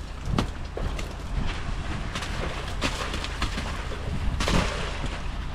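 Engine of a concrete boom pump truck running steadily, with scattered knocks and clatter and a brief louder surge of noise about four and a half seconds in.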